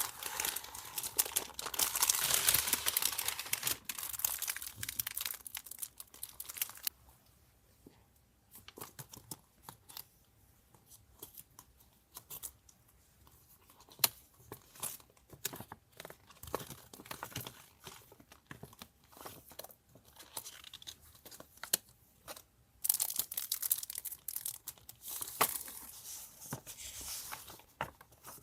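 Paper and packaging being torn and crinkled by hand, in two long rustling spells, with lighter paper handling and small taps between them.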